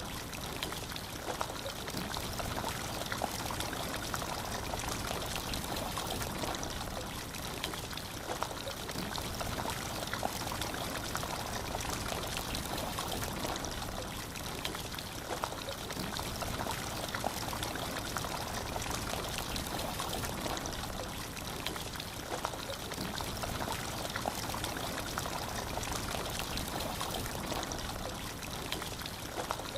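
Water pouring in a steady stream from a small DIY model water pump.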